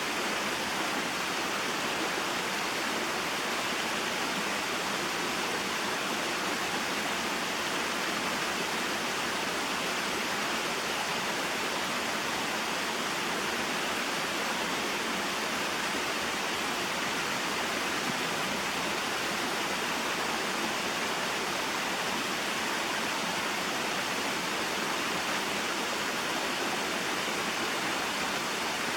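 Small waterfall and mountain stream: water falling and flowing over rocks in a steady, even rush with no changes.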